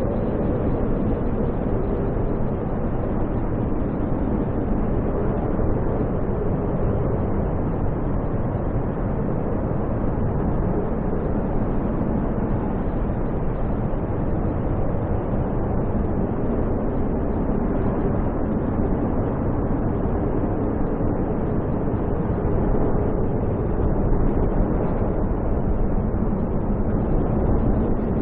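Snowstorm wind roaring steadily, a loud, even, low rush of noise that never lets up.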